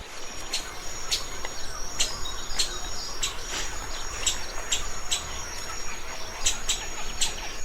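Outdoor nature ambience: a steady high-pitched insect-like trill with short, sharp bird-like chirps repeating about every half second.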